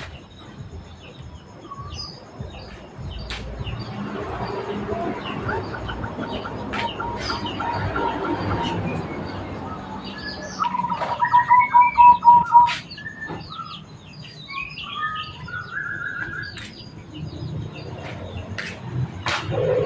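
Zebra dove (perkutut) cooing: a loud run of quick staccato coo notes about eleven seconds in, among scattered high chirps of other small birds.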